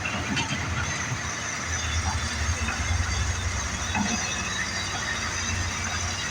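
Hyundai and Hitachi hydraulic excavators running, a steady low engine drone with high squeals and creaks over it.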